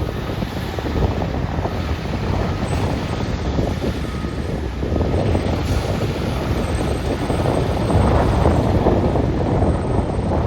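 Fire engine's diesel engine running at low speed, a steady rumbling noise that grows a little louder in the last few seconds.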